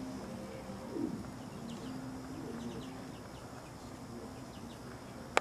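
Birds calling: scattered faint high chirps over low, drawn-out cooing notes, with a louder low note about a second in. A single sharp click comes at the very end.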